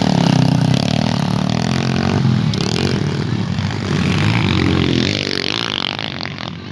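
Enduro dirt bike engines running and revving, their pitch rising and falling, dropping a little in loudness near the end.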